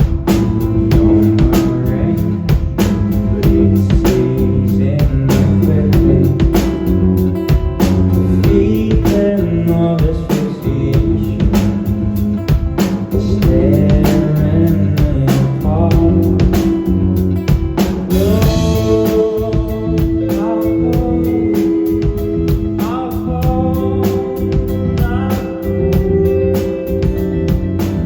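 Rock band playing live: a drum kit keeps a steady beat under guitars and bass, and a singer carries the melody.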